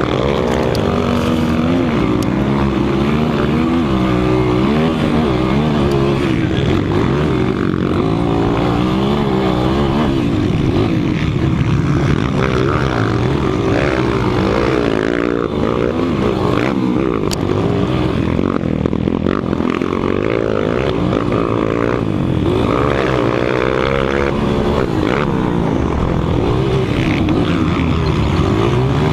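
200 cc motocross dirt bike engines running hard, their pitch rising and falling over and over as they rev up and ease off around the track.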